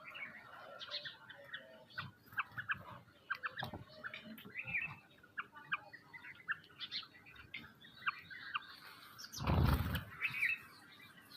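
Small birds chirping: many short, overlapping chirps throughout. About nine and a half seconds in, a loud rushing noise lasts about half a second.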